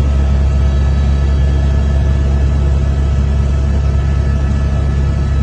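Steady, loud, deep rumble of a glacial lake outburst flood: a torrent of rushing water and debris.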